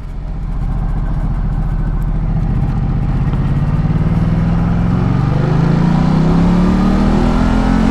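Ducati Multistrada 1200's V-twin engine pulling under steady acceleration, its pitch climbing slowly and evenly, then dropping off right at the end.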